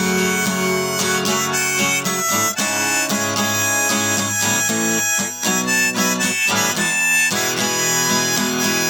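Harmonica playing a melody over a strummed acoustic guitar in an instrumental break of a folk-rock song.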